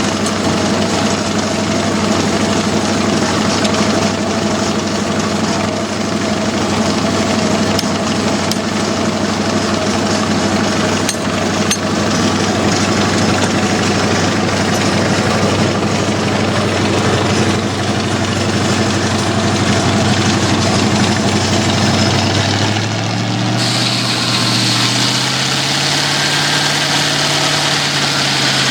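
The engine driving an old homemade sawmill runs steadily. About three-quarters of the way through, its pitch climbs and a high hiss joins in.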